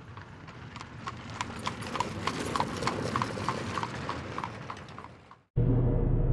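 A quick run of hollow clicks, about three or four a second, like hoofbeats, swelling and then fading away; then loud, dark music starts abruptly near the end.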